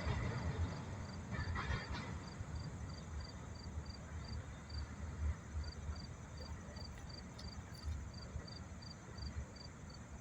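An insect chirping in a steady rhythm of short high pulses, about three a second, pausing briefly midway, over a low rumble.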